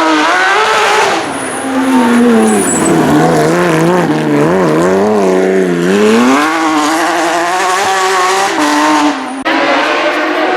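Porsche 911 GT3 flat-six at full rally pace, its revs climbing and dropping repeatedly with sharp falls in pitch at the gear changes and lifts.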